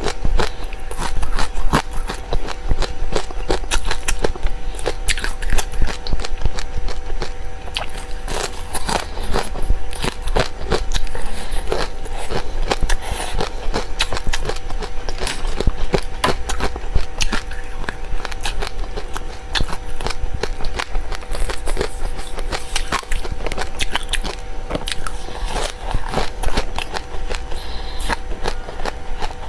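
Close-up crunching and chewing of dry seeds, a dense run of small crisp cracks and clicks with no break.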